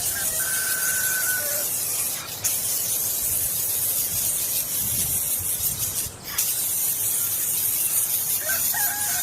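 Steady high hiss that drops out briefly twice. A rooster's crow fades out in the first second and a half.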